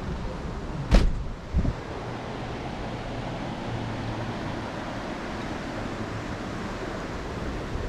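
Steady rushing of river water, with a sharp knock about a second in and a softer thump half a second later.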